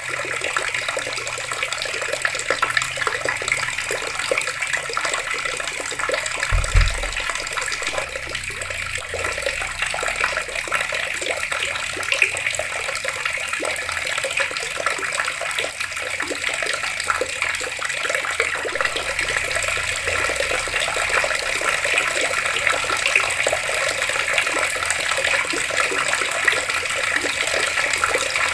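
Water taps running, a steady splashing rush of water falling and splattering; a brief low thump about seven seconds in.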